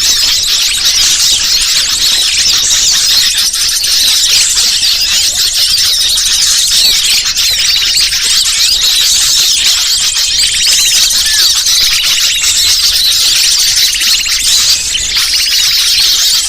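Bird-lure recording of many small birds chirping and trilling at once: a dense, steady chatter of high-pitched calls with no pause.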